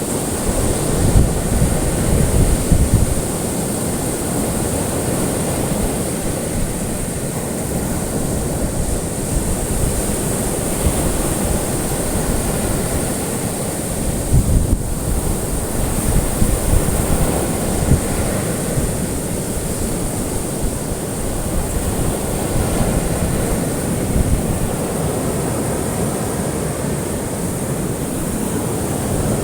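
Ocean waves washing onto a shore in a continuous surf, swelling louder a couple of times as larger waves break, with a steady high hiss over it.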